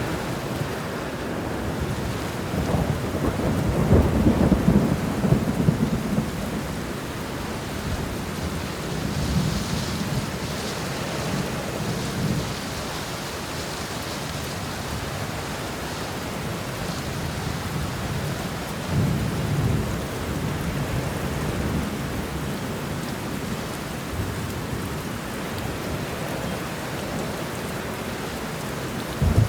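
Steady rain with rolling thunder: deep rumbles swell around four seconds in and again near twenty seconds, and a sharper clap comes right at the end.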